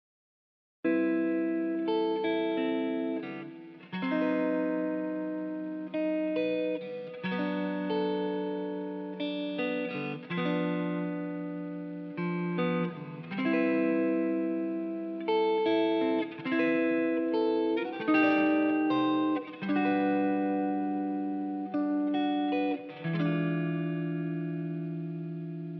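A guitar playing a slow run of chords, each left ringing and fading before the next, starting after a short silence.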